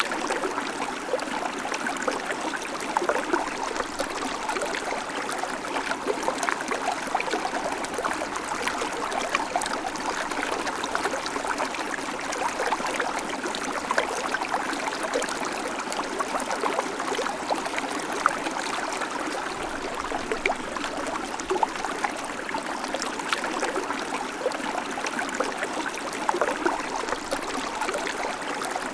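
Babbling creek: shallow water running steadily over stones, with many small splashes and gurgles.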